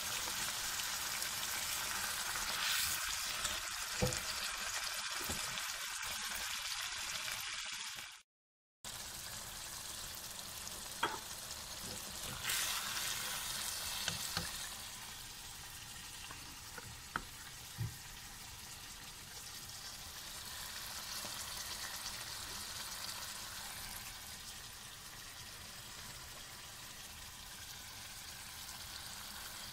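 Chicken pieces frying in oily spiced masala in a wok: a steady sizzle while they are stirred, with a few light knocks of the spoon against the pan. The sound cuts out for half a second about eight seconds in, then the sizzle carries on more quietly.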